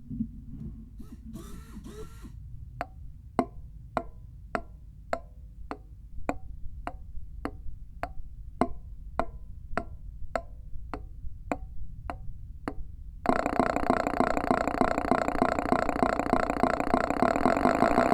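Simulated inline nine-cylinder engine sound. It starts as slow, evenly spaced single clicks, nearly two a second. About thirteen seconds in it switches abruptly to a steady running tone, which starts to rise in pitch at the very end.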